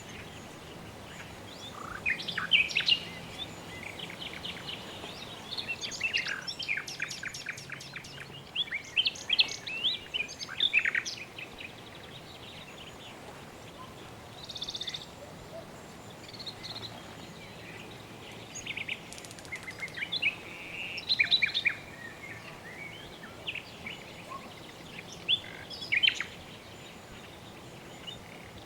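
Birds chirping and singing in scattered bursts of quick, high notes and trills, over a steady background hiss.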